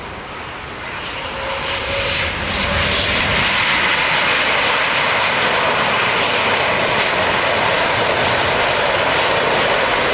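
Jet airliner's engines close by. The noise swells over the first three seconds, then holds steady and loud with a high whine.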